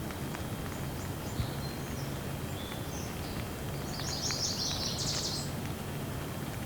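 Steady rain falling, a hiss with scattered drop ticks, while a small bird chirps in short high calls, breaking into a quick twittering run about four seconds in.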